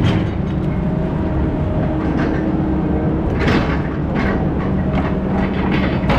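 Heavy diesel engine running steadily under a constant low hum, with bursts of metal rattling and clanking about two seconds in and again around three and a half to four and a half seconds in.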